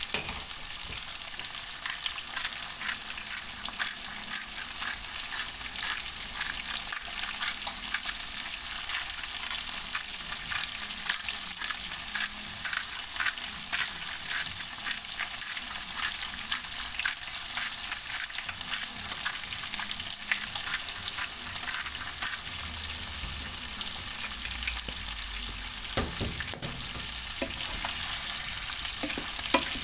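Food frying in hot oil, a steady sizzle thick with crackles and pops. A few dull knocks come near the end.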